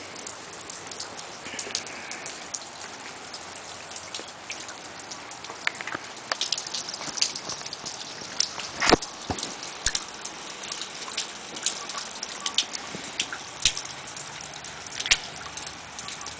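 Rain falling: a steady hiss with irregular drop taps scattered throughout, one sharper tap about nine seconds in.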